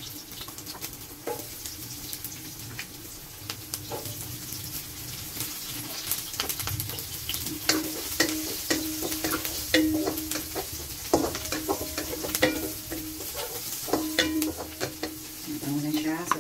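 Chopped onion, garlic and ginger sizzling in olive oil in a non-stick wok, with a wooden spatula scraping and knocking against the pan as they are stirred; the knocks come thick and fast from about halfway through.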